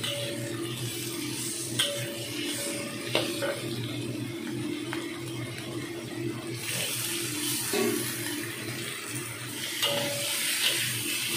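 Shrimp and scallops sizzling in hot oil in a pan as they are stir-fried with a metal spatula, with a few sharp clicks of the spatula against the pan. A steady low hum runs underneath.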